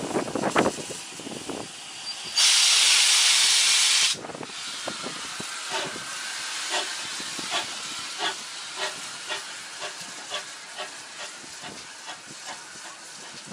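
Steam locomotive, GWR 16xx 0-6-0 pannier tank No. 1638, letting out a loud hiss of steam for under two seconds, then pulling away with its exhaust beats quickening.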